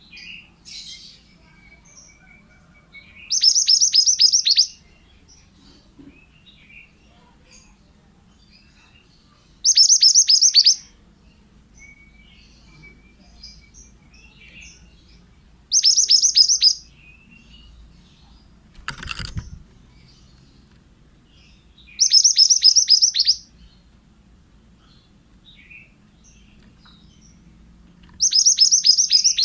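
Male mantenan bird singing: five loud phrases about six seconds apart, each a quick run of high falling notes lasting just over a second, with faint chirps between them. A short dull knock about two-thirds of the way through.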